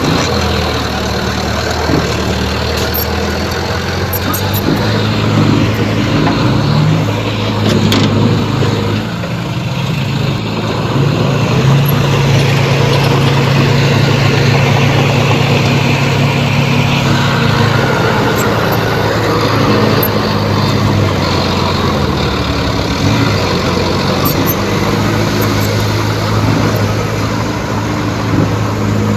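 Heavy diesel earth-moving machinery working: a steady engine hum whose pitch rises and falls with load, with a few sharp metallic clanks.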